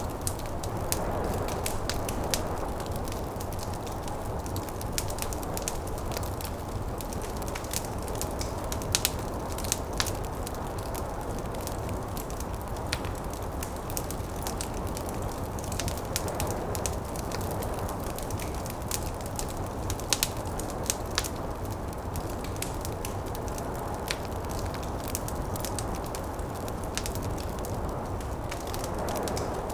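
Wood fire burning in a fireplace, with irregular sharp crackles and pops over a steady low rush of wind from a snowstorm. A few pops stand out louder than the rest.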